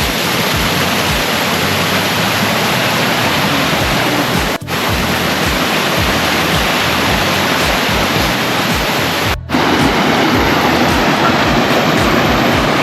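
Waterfall rushing over rock: a loud, steady hiss of falling water that dips out briefly twice, about four and a half and nine and a half seconds in.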